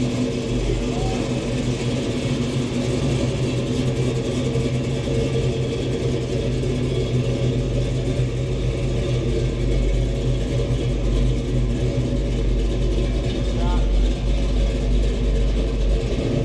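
1970 Dodge Challenger R/T's 440 V8 idling steadily, with no revving.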